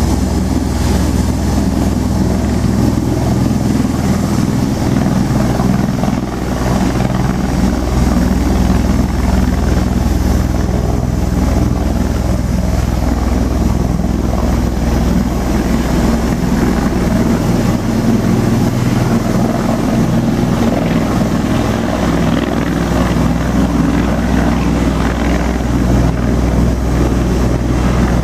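Bell Boeing V-22 Osprey tiltrotor running, a steady loud drone of its twin proprotors and turboshaft engines with a low hum underneath.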